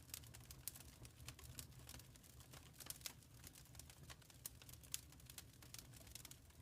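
Wood fire in a fireplace crackling: many small irregular pops and snaps, a few sharper ones, over a faint low rumble of the burning.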